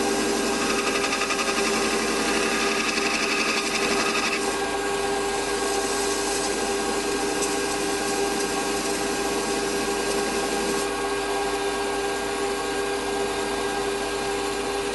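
Small metal lathe running steadily with a hand scraper cutting into the spinning workpiece. A high scraping hiss sits over the lathe's steady hum for the first four seconds or so, then eases. The machinist feels the scraper's edges need lapping again.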